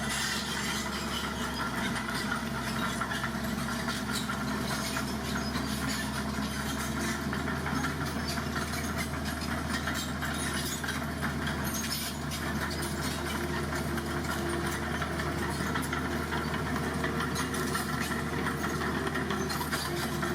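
Heavy vehicle's engine running steadily at an even speed, with no revving.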